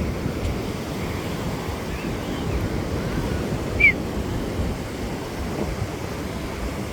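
Ocean surf and wind buffeting the microphone in a steady low rumble, with a brief high-pitched falling chirp about four seconds in.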